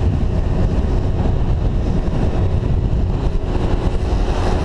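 Yamaha Zuma 50cc scooter engine running at a steady pitch while riding, under heavy wind buffeting on a helmet-mounted microphone.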